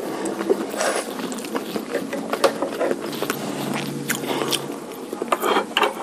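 Close-miked eating sounds: a person biting and chewing food from a meal of curry noodles and meatballs, with many irregular small clicks and smacks.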